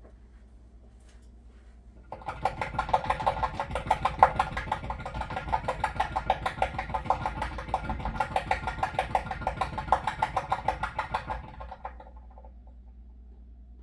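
Water heater pipe chattering with a rapid, even knocking for about ten seconds. It starts abruptly about two seconds in and dies away near the end.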